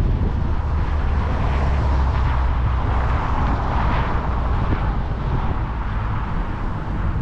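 Wind buffeting the microphone while riding an electric motorcycle, a steady low rumble with road noise that swells about three to four seconds in.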